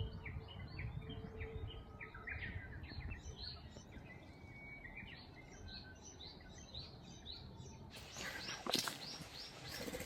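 Small birds chirping, many short repeated calls, over a low outdoor rumble; near the end, a few sharp rustling or scuffing noises come in.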